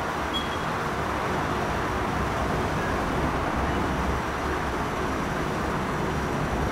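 Steady, even background noise, like a low rumble of traffic or ventilation, with no distinct events.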